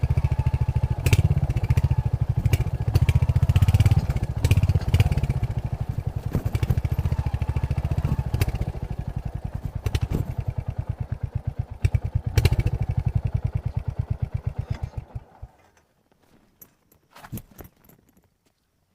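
Royal Enfield Hunter 350's single-cylinder engine running through its stock exhaust with an even beat, with a few sharp clicks over it, then switched off about fifteen seconds in, leaving only a few faint clicks.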